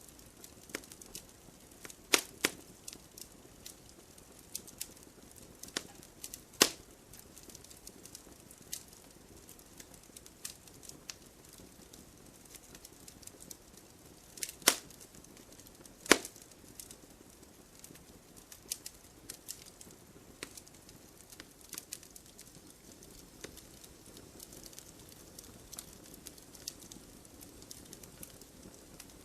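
Campfire burning in a fire pit, crackling steadily with irregular small ticks and a handful of louder sharp pops over a faint hiss.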